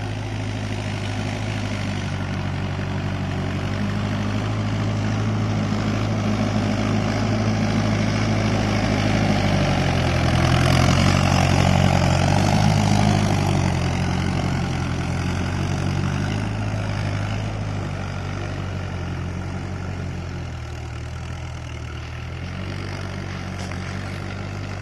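Diesel tractor engine running steadily while working a rotavator. It grows louder to a peak about halfway through, as if passing close, then fades again.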